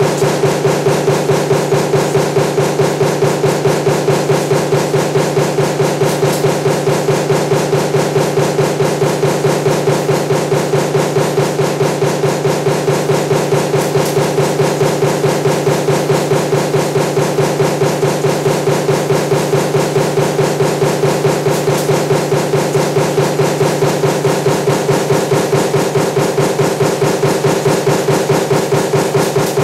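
Power press running continuously, its die stamping table fan motor parts in a fast, even train of strokes over a steady hum.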